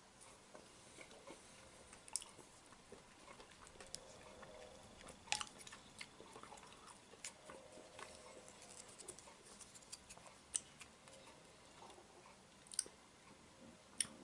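Faint chewing of a mouthful of stodgy, water-soaked muesli, with scattered soft clicks as a plastic spoon scoops from a bowl.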